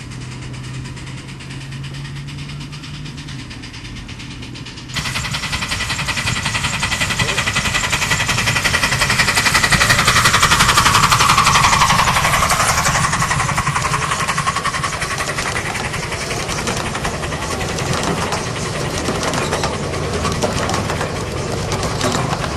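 Miniature live-steam locomotive running hard close by, its exhaust beating in a rapid chuff. The sound starts abruptly about five seconds in, swells, and falls in pitch as it passes.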